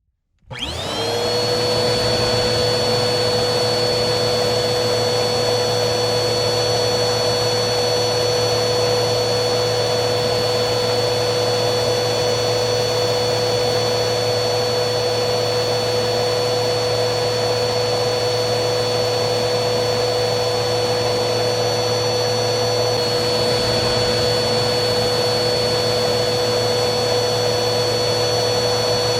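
Vacuum cleaner switched on, its motor spinning up with a rising whine over about a second, then running steadily as a loud, even rush of air with a constant high tone.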